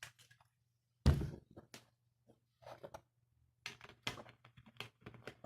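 A single sharp thump about a second in, then a string of quieter clicks and rustling handling noises near the end, over a faint steady low hum.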